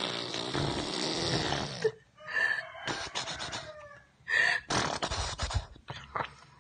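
Lips blown and buzzed into a sputtering raspberry: one long buzz of about two seconds, then a string of shorter ones.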